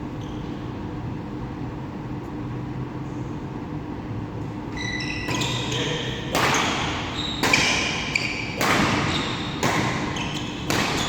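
Badminton doubles play in an echoing sports hall: over a steady hall hum, short shoe squeaks on the court floor start about halfway through, along with several loud sharp hits.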